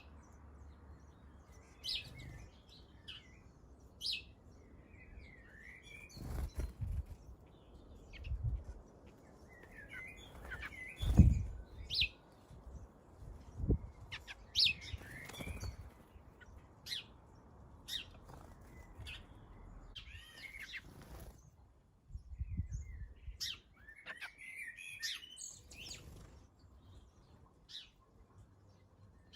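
Garden birds at a feeder chirping in short, scattered calls, among them the feeder's usual house sparrows. Several dull low thumps come in between, the loudest about eleven seconds in.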